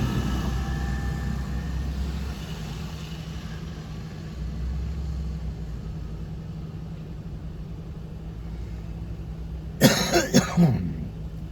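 A vehicle goes by and fades over the first couple of seconds over a steady low engine hum. Near the end a person coughs about four times in quick succession.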